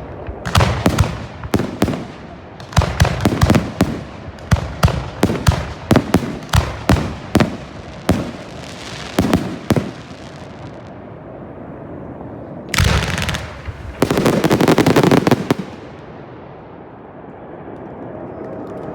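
Fireworks display finale: a fast run of aerial shell bursts, two or three bangs a second, for about ten seconds. Then comes a short dense burst and a closing crackling salvo lasting about a second and a half, with echoes dying away.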